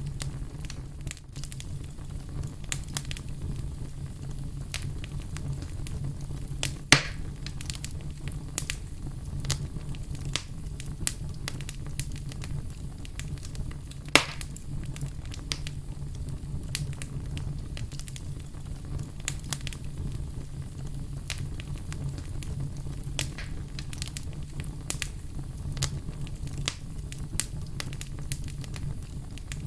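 Fire crackling steadily, with frequent small snaps and two louder pops about 7 and 14 seconds in, over a low steady rumble.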